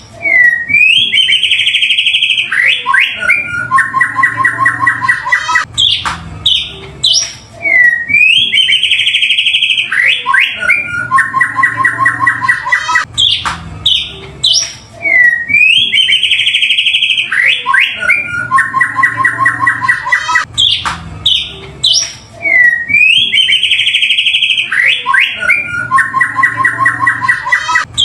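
White-rumped shama (murai batu) song played as a loop, the same phrase coming round about every seven seconds: a swooping whistle, a fast high trill, then a lower rapid rattling trill about two seconds long. A low hum runs underneath.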